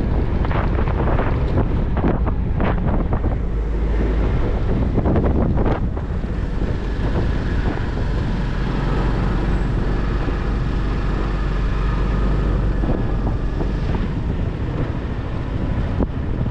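Motorcycle engine running while riding, with wind buffeting the microphone. The gusts are heaviest in the first few seconds, after which the engine's steady drone comes through more clearly.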